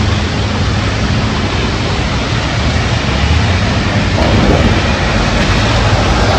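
Heavy rain and strong wind: a steady, dense hiss with a low rumble underneath, swelling slightly about four seconds in.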